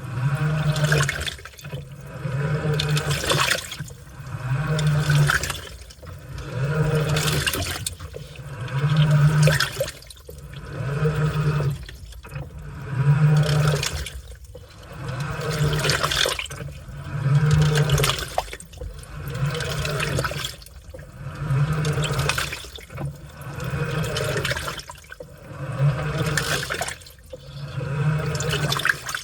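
Washing machine running a wash cycle: the motor turns the drum or agitator in strokes about every two seconds, each with a low hum and a surge of water sloshing through the laundry.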